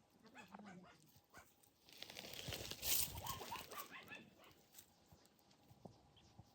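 A domestic cat vocalizing: a few short pitched calls near the start, then a louder noisy rush with short calls about two to four seconds in.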